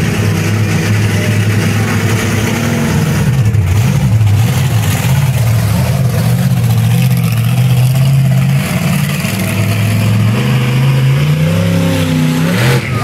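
Truck engine running close by, its pitch wavering, then rising as it revs up about ten seconds in.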